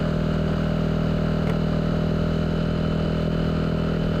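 Yamaha Aerox 155 scooter's single-cylinder engine running at a steady, unchanging speed through a Villan SR1 aftermarket exhaust.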